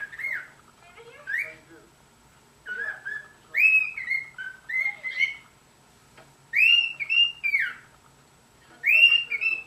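Cockatiel whistling its song: short phrases of clear, pitched whistled notes with gaps between them. The phrases grow louder and fuller from about three and a half seconds in.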